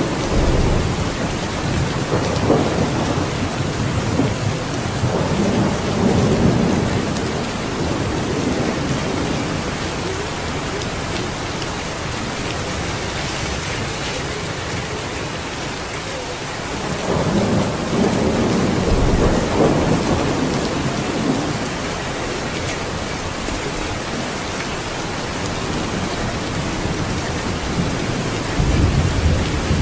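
Steady heavy rain hissing, with thunder rumbling low underneath that swells up in the first several seconds, again a little past halfway, and once more near the end.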